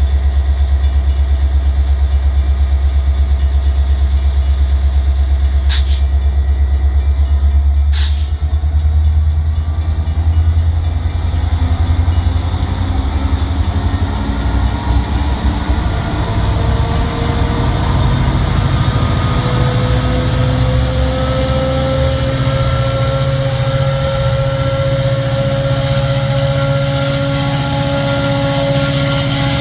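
Metra commuter train pulling out of the station, pushed by its MP36PH diesel locomotive: a low pulsing engine throb, two sharp clicks about six and eight seconds in, then the engine and drive rising slowly in pitch with a climbing whine as the train picks up speed.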